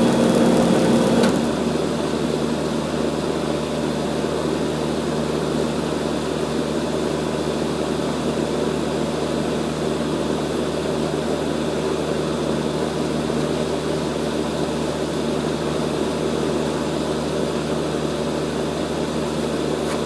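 1988 Rheem 4-ton central air conditioner outdoor unit shutting down: the compressor hum cuts off about a second in, leaving a steady whirring machine noise running on.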